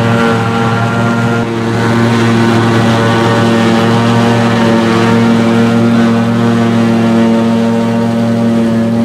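Heavy diesel engine of silage harvesting machinery running steadily at a constant pitch, with a brief dip in level about a second and a half in.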